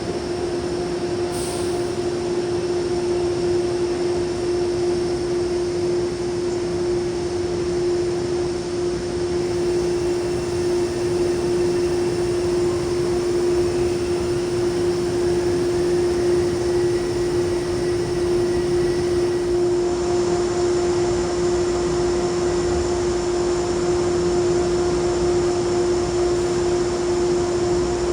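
Steady drone of commuter trains standing at the platform, with a constant electrical or machinery hum and a steady hiss of air-handling noise.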